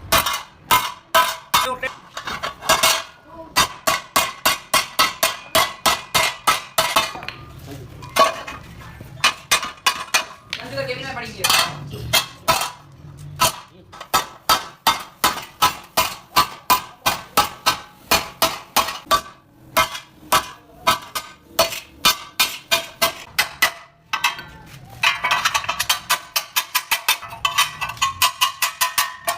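Hammer blows on sheet metal, about three a second, each with a short metallic ring, and a denser run of blows near the end.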